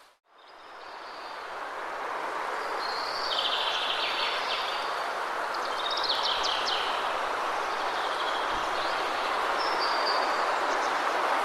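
Waterfall's steady rushing water with birds chirping over it in short repeated bursts. The sound dips almost to silence at the very start and swells back up over about two seconds.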